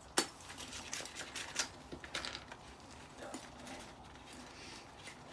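Scattered light clicks and clinks of small metal parts being handled and set down on a workbench, sharpest in the first couple of seconds, then fainter.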